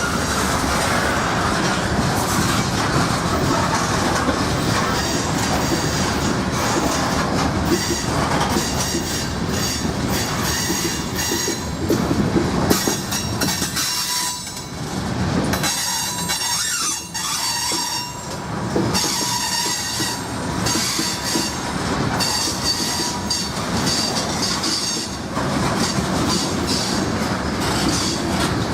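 Norfolk Southern freight train rolling past, its wheels clacking over the rail joints with a high-pitched squeal that comes and goes.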